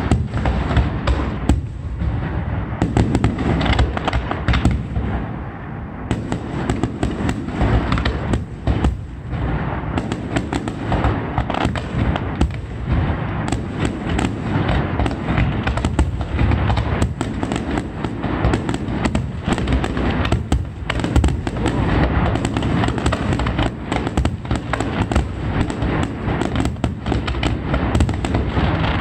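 Fireworks display at full intensity: a dense, continuous barrage of shell bursts and firecracker crackle, the booms coming one on top of another without a pause.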